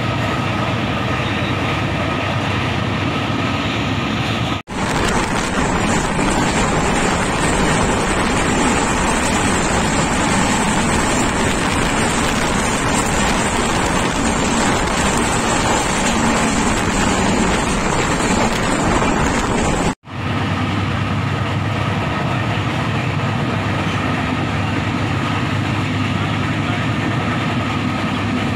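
Steady running noise of an express train at about 100 km/h, heard from inside a passenger coach: a constant rumble and rush of wheels on rail. The sound changes abruptly twice, with a brighter, hissier rush in the middle stretch.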